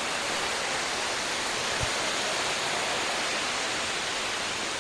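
Steady rushing of water pouring down a waterfall.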